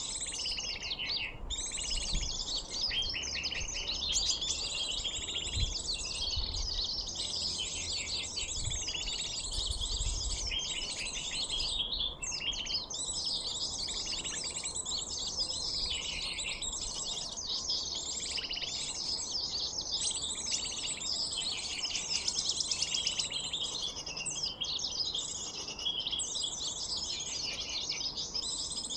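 A recorded small-bird call lure played to draw in sunbirds: dense, rapid, high chirping and trilling without a pause. There are a few soft low bumps in the first ten seconds.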